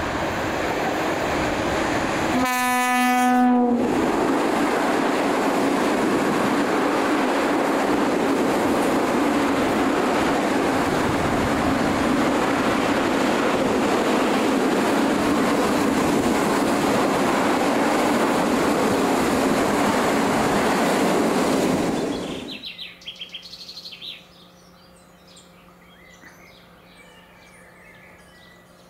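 Freight train with a locomotive and loaded open wagons passing close: one horn blast about a second long near the start, then a steady rumble and wheel clatter of the wagons rolling by. It cuts off about 22 seconds in to a much quieter scene with a distant locomotive's faint steady hum and a few bird chirps.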